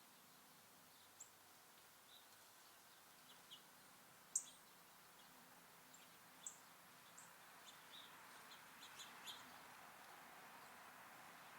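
Small songbirds giving short, high, scattered chirps, about a dozen in all, the loudest about four and a half seconds in. A faint steady hiss lies under them and grows slightly near the end.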